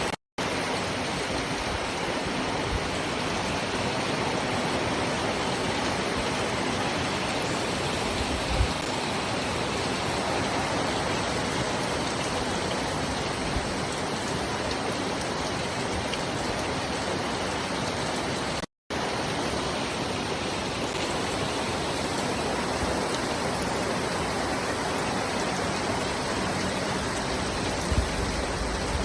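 Steady rain falling as an even hiss, broken twice by a split-second silent gap, once right at the start and once about two-thirds of the way in, with a few soft low knocks near the end.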